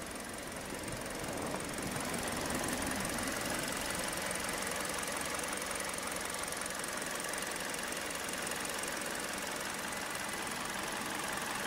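2016 Kia Sportage's 2.0-litre naturally aspirated DOHC 16-valve inline-four idling steadily, heard at the open engine bay. It grows louder over the first couple of seconds as the microphone comes closer, then holds steady.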